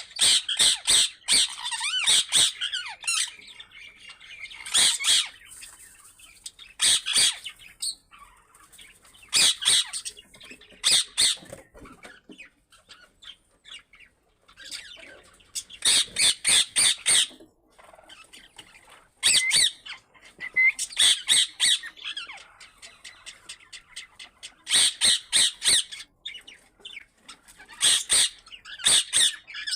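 Birds squawking: harsh, high calls in bursts of several quick notes, repeating every few seconds with short quiet gaps between.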